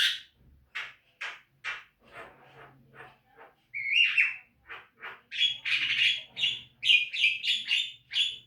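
Javan myna singing: short, spaced harsh notes at first, then from about five seconds in a fast chattering run of repeated notes.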